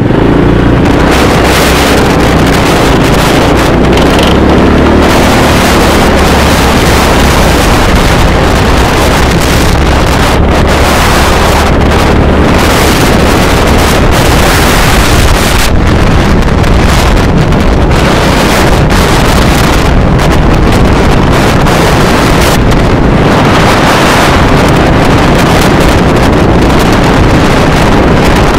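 Loud, steady wind rush over the microphone of a moving motorcycle, with a low engine drone underneath.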